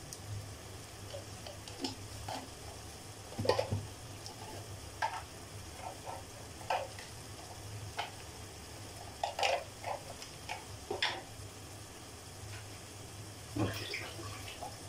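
Sliced sausage and tomato frying in a cooking pot: scattered, irregular crackles and pops over a steady low hum.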